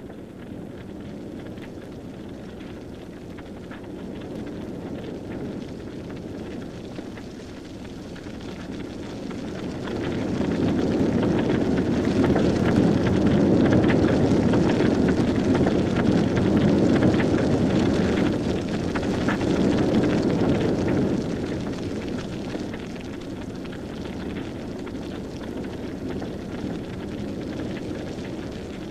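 Grass fire burning: a steady rushing noise with fine crackling that swells louder about ten seconds in and eases back after about twenty.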